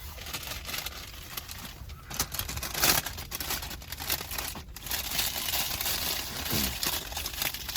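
Paper food bag and wrappers crinkling and rustling as they are handled and opened, busier from about two seconds in.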